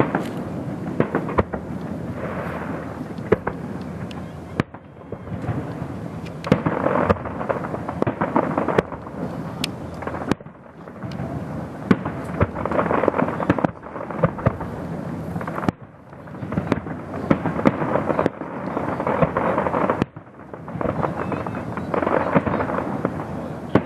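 Fireworks display: many shell bursts in quick succession, sharp bangs over a continuous crackling rumble. The din swells and dies back every five or six seconds.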